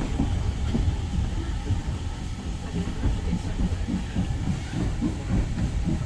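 Steam-hauled railway carriage running along the track: a steady rumble of wheels on rail with quick, irregular low knocks.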